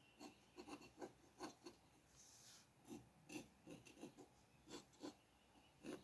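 Pencil or dip-pen strokes scratching on paper: a run of short, quick strokes with one longer, hissier stroke a little after two seconds in.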